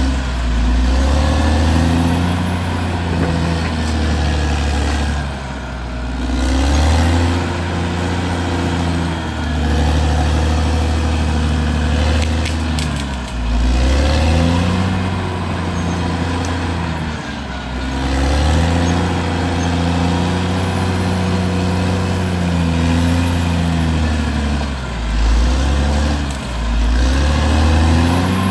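Caterpillar D6R XL bulldozer's diesel engine running hard, its pitch sagging and climbing back several times as the load comes and goes.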